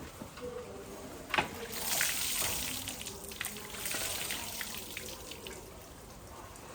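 A sharp click, then a hissing spray for about three seconds, with scattered small clicks and knocks, fading near the end.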